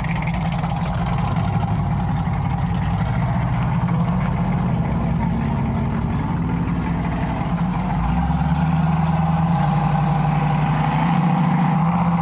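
Car engine running at idle with a steady low drone, its pitch shifting about eight seconds in and again near eleven seconds.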